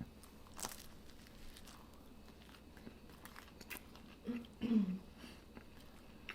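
Quiet crunchy bites and chewing of pizza topped with a crisp, burnt pepperoni, with a few sharp crunches. About four and a half seconds in come two short hummed 'mm' sounds.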